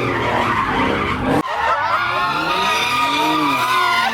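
A car drifting: tires squealing in wavering, bending tones over a running engine, whose low rumble drops away suddenly about a second and a half in while the squeal goes on.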